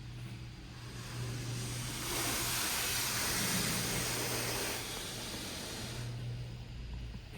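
High-pressure water spray from a touch-free automatic car wash's overhead monorail arm hitting the car, heard from inside the cabin as a hiss that swells about a second in, is loudest in the middle and fades near the end. A steady low hum runs underneath.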